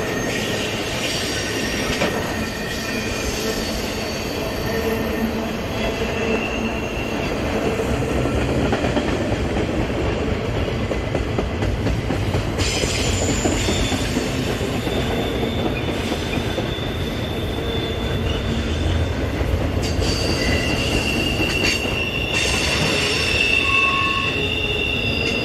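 Ringling Bros. circus train's loaded flatcars rolling past on a curve: a steady rumble of steel wheels on rail, with high, thin wheel squeals coming and going over it, loudest near the end.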